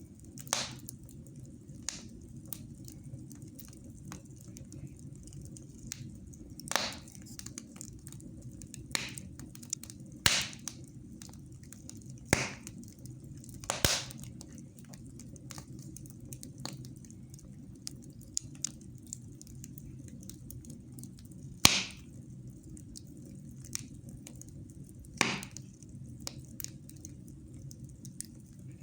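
Wood fire burning in a fireplace, crackling with sharp, irregular pops every few seconds over a steady low background.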